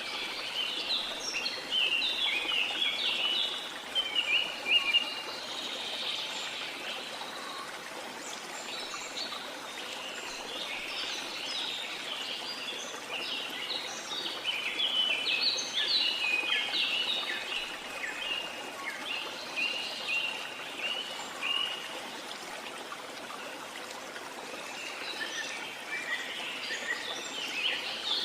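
Rainforest ambience: a steady hiss of falling rain or running water under bursts of many quick, high bird chirps that come and go, busiest at the start, in the middle and near the end.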